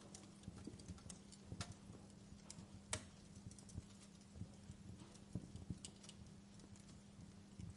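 Wood fire crackling: irregular small pops and snaps, with one sharper pop about three seconds in, over a faint steady low hum.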